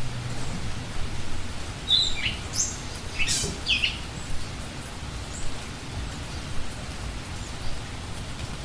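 A wild bird giving a quick cluster of short, sharp, high chirps about two to four seconds in, over a steady hiss of background noise.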